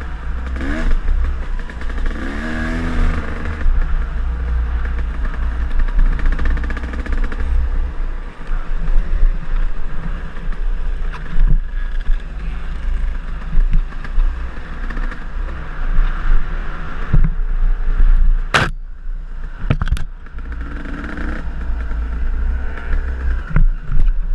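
KTM enduro dirt bike engine running on a trail ride, the revs rising and falling with the throttle, under rough wind and chassis noise. Two sharp knocks come about three-quarters of the way through.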